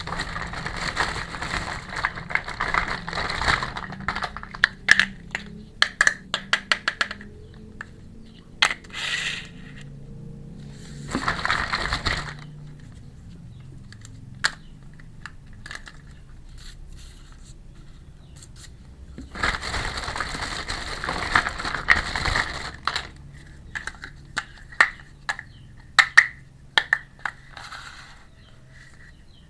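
Unboxing a miniature toy kitchen set: packaging crinkles and rustles in three stretches, and between them small toy pieces give runs of sharp clicks and taps as they are handled and set down.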